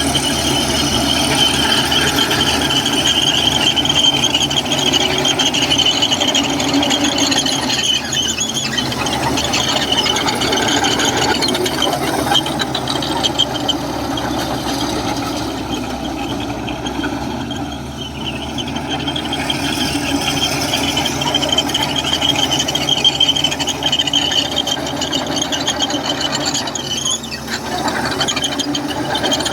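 Komatsu crawler bulldozer at work: its diesel engine running under a steady high squeal and rattle from the steel tracks and undercarriage.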